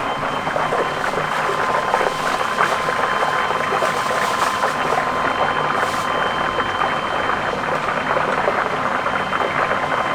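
Chicken deep-frying in hot oil during its first, light par-fry: a dense, steady crackling sizzle.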